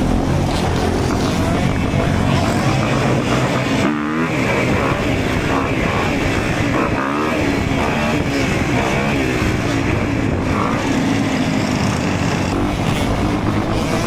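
Dirt bike engine running and revving, its pitch climbing and dropping several times.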